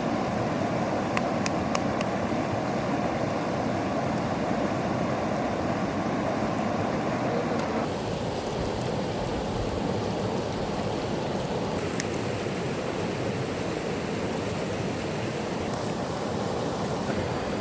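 A river flowing steadily, a constant rushing of water, with a few faint clicks.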